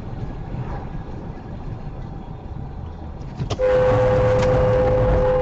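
Low rumble of a car on the road, then about three and a half seconds in a sharp click and a car horn starts sounding, one loud steady held tone.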